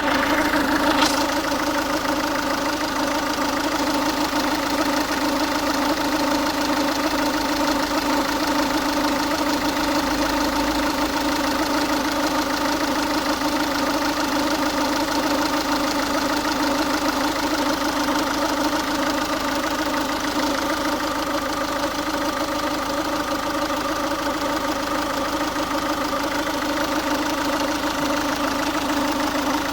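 Ford Focus 1.6 TDCi four-cylinder turbo-diesel engine idling steadily while warm, carrying the noise that its owner says appears only once the engine is warm, cause not yet known. A brief click about a second in.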